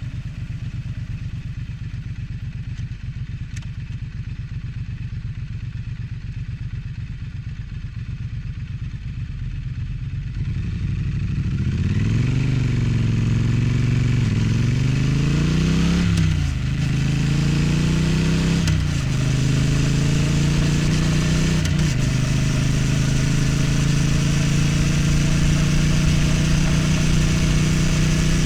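Triumph Street Twin's 900 cc parallel-twin engine running steadily at low revs, then pulling away about ten seconds in. The revs rise and drop back with each gear change, three or four times, before the engine settles into a steady cruise. Wind rushes over the microphone once it is moving.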